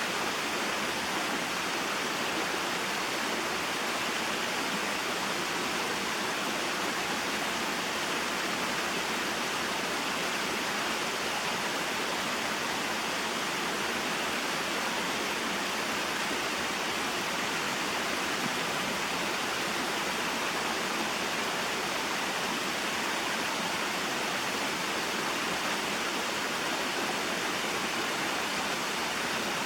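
Small waterfall and mountain stream: water pouring and rushing in a steady, unchanging hiss.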